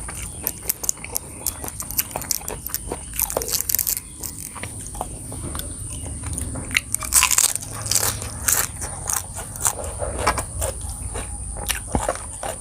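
A person eating close to the microphone: repeated biting, crunching and chewing of crisp food, with louder crunches about three, seven and eight and a half seconds in.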